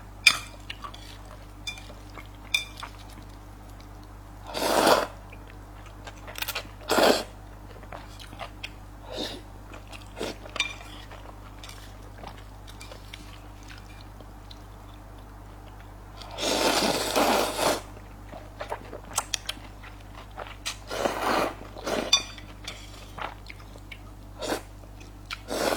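Close-miked eating: chewing and crunching noodles with peanuts in them, with many small clicks of utensils on a bowl. A few louder noisy bursts of about a second each come through, the longest around two thirds of the way in, over a steady low hum.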